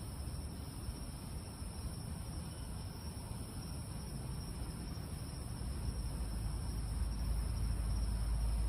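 Steady, high-pitched chorus of night crickets. A low rumble builds underneath in the last few seconds.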